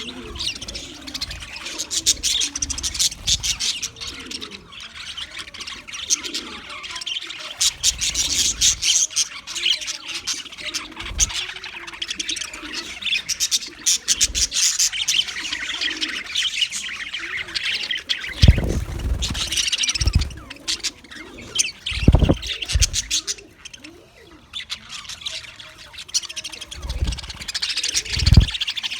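English budgerigar chattering and warbling: a continuous stream of rapid high chirps and squawks. Several short low thumps come about two-thirds of the way through and again near the end.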